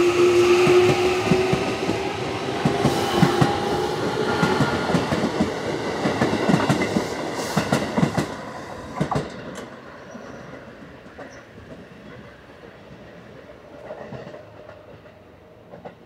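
Train pulling away, with a motor whine rising in pitch and wheels clacking over rail joints. The sound fades out about nine seconds in.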